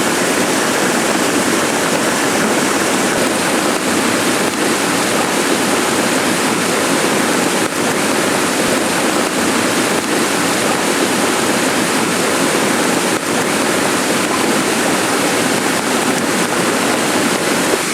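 Heavy rain falling, a loud steady hiss with a few sharper drop hits scattered through it.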